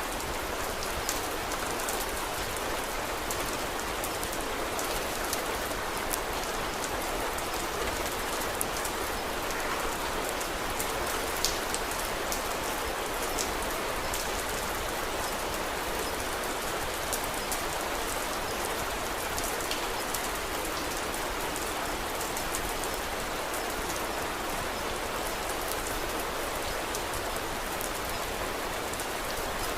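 Steady rain falling, with scattered small sharp ticks through it, one louder tick about eleven seconds in.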